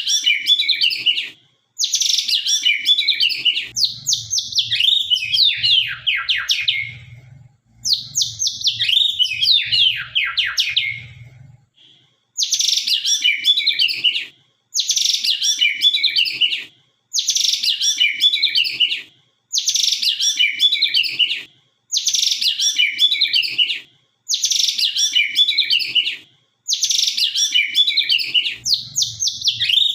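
White-rumped shama (murai batu, Sabang strain) singing loud, sharp song phrases about two seconds long with short pauses between them. The first couple of phrases are longer and slide downward in pitch; after that the phrases repeat at an even pace.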